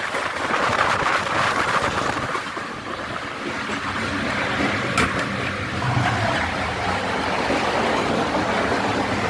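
Passenger train running: a steady rumbling, rushing noise with a single sharp click about five seconds in.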